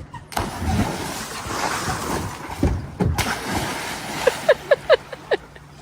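Water splashing and churning, as from a cannonball jump into a pool. Near the end comes a quick run of about six short, pitched calls.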